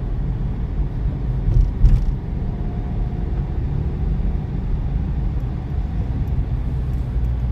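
Steady low rumble of a moving car's engine and road noise, heard from inside the car.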